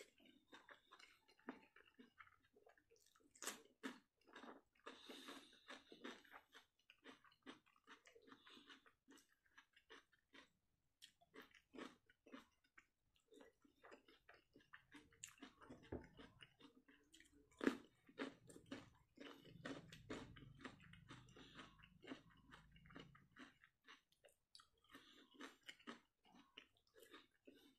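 Close-miked chewing of fish curry and rice: soft, irregular wet smacks and clicks of the mouth, with one sharper click a little past halfway.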